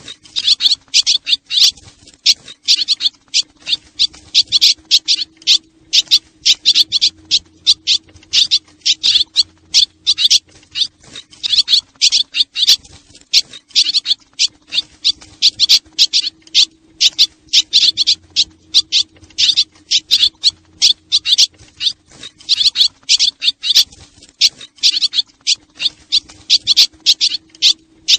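Swallows twittering in a lure-call recording: dense runs of rapid, high chirps in bursts of a second or two, one after another, over a faint steady low hum.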